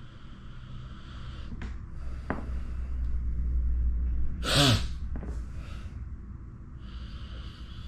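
A person's short, sharp burst of breath and voice about halfway through, falling in pitch, after a low rumble that builds up to it.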